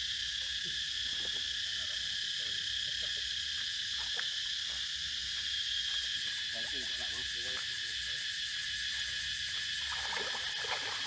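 Steady, unbroken insect chorus, a continuous high buzzing and trilling.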